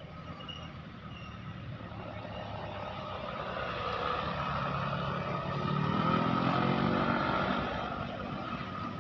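A road vehicle's engine passing close by, growing louder to a peak about six to seven seconds in, with its engine pitch rising near the peak, then fading away.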